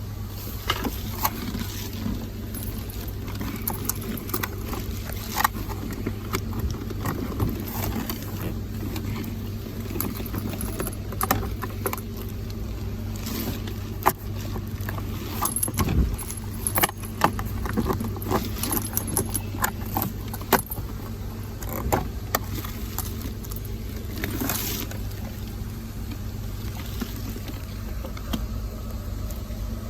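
Keys and small metal parts jangling and clicking irregularly over a steady low hum.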